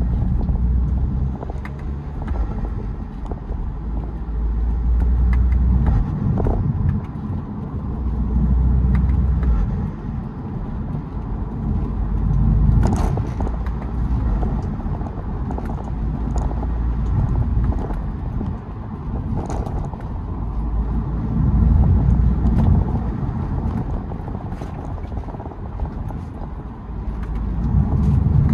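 BMW E92 320d's four-cylinder turbodiesel engine pulling along at road speed, its low rumble swelling and easing every few seconds with the throttle.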